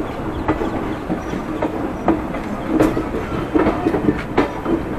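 Seemanchal Express passenger train running on the track: a steady rumble with irregular clicks and knocks, the clickety-clack of the wheels over rail joints.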